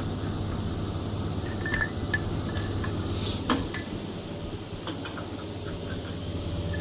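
A handful of sharp metallic clinks as metal hardware is handled, the loudest knock about halfway through, over a steady low hum.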